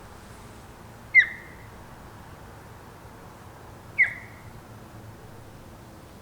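An animal giving two short, sharp high squawks about three seconds apart, each a quick downward chirp, over a faint steady background hiss.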